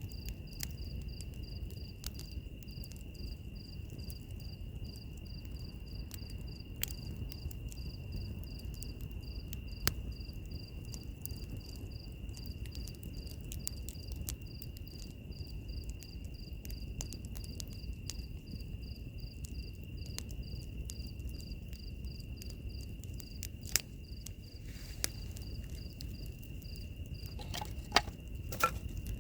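Wood fire crackling over a low, steady rush of flame, with scattered clicks and a few sharper pops, the loudest near the end. Insects chirp throughout: one a steady high trill, another a higher chirp pulsing about two to three times a second.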